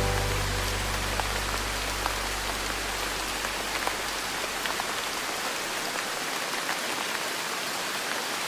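Steady rainfall, an even hiss with scattered sharp drop ticks. A low held music note fades out over the first few seconds, leaving only the rain.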